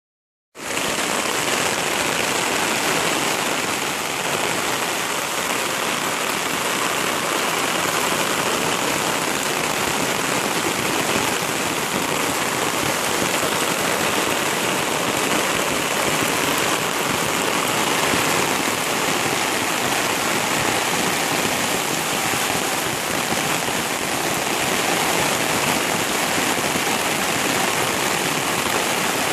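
Heavy tropical rain pouring steadily, a dense even hiss that begins abruptly about half a second in.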